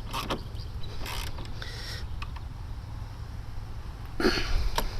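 Clicks, scrapes and creaks of hand work on a car battery as it is set in place and secured, with a louder scrape and a click about four seconds in.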